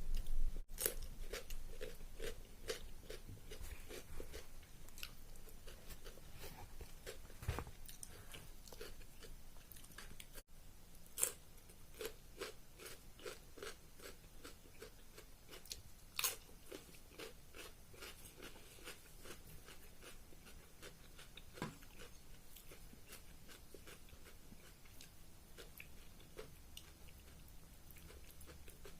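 A person chewing mouthfuls of rice and curry close to the microphone, with a steady chewing rhythm of about two or three chews a second and wet mouth clicks. A few sharper clicks stand out, and the chewing grows softer toward the end.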